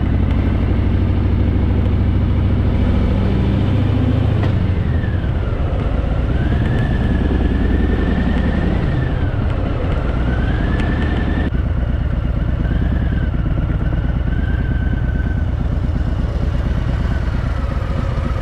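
Harley-Davidson Fat Boy's V-twin engine running on the move, easing off about four seconds in and picking up again a few seconds later. A thin high tone wavers above it.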